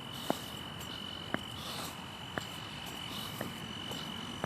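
Night insects trilling in one steady high-pitched note, with short sharp clicks about once a second.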